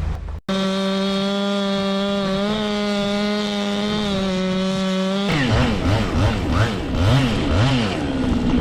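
Chainsaw running at full throttle with a steady high note that sags slightly twice, as if under load, then revving up and down repeatedly from about five seconds in.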